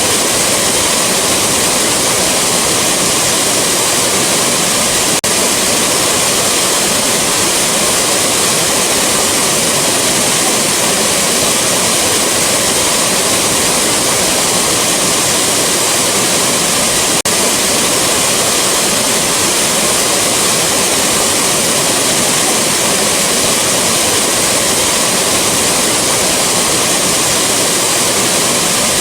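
Waterfall rushing: a loud, steady, unbroken rush of falling water.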